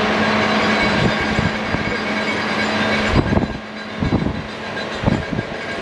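Mount Washington Cog Railway train running on its rack track: a steady noise with a low hum. About three seconds in it drops abruptly to a quieter run broken by irregular clanks and knocks.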